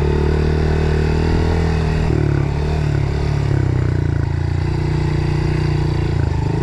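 Dirt bike engine running loud and steady, its pitch dropping about two seconds in and then holding.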